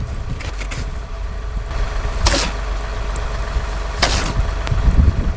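Snow shovel scraping and pushing heavy, wet snow in short strokes, the two loudest about two and four seconds in. Behind them runs a steady low engine hum.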